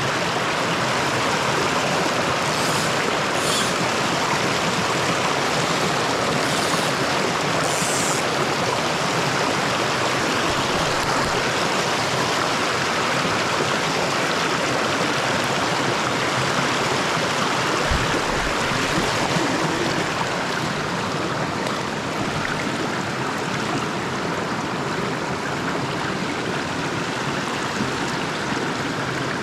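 Small mountain stream running steadily over rocks, a continuous rushing of water. A few short high sounds come in the first several seconds, and a brief low knock about two-thirds of the way through.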